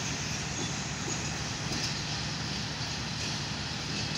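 Departing passenger train's rear coaches rolling away over the tracks: a steady rumble with a low hum underneath.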